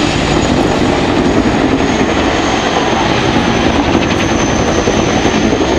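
Boeing Chinook twin-rotor helicopter flying close in a display manoeuvre. The fast beat of its rotor blades runs under a high engine whine that sags slightly and comes back up.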